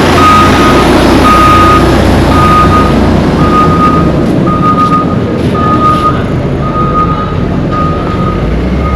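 Reversing alarm of a road-construction machine beeping steadily, about one beep a second, over the low rumble of its engine.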